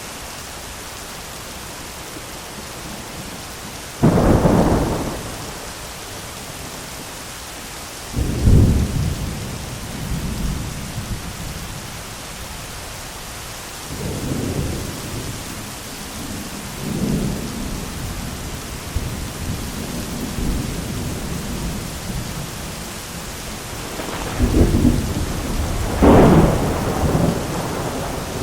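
Thunderstorm: steady rain with thunder. There are sudden thunderclaps about four and eight seconds in, lower rolling rumbles through the middle, and two loud cracks close together near the end.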